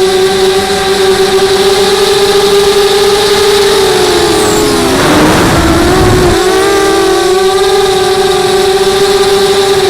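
Brushless motors and propellers of a 250-size FPV racing quadcopter, a loud steady buzzing whine. About halfway through, the pitch dips and wavers with a rush of air as the motors change speed, then steadies again.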